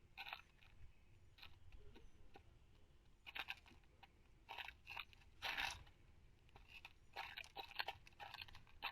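Birds pecking and cracking black oil sunflower seeds at a feeder, a faint, irregular series of short crunches and taps. The loudest crunch comes about five and a half seconds in.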